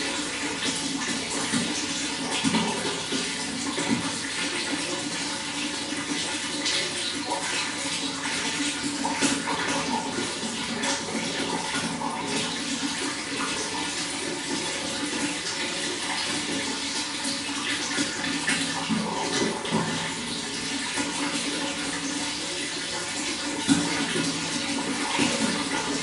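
Running water flowing steadily, with small irregular splashes and gurgles.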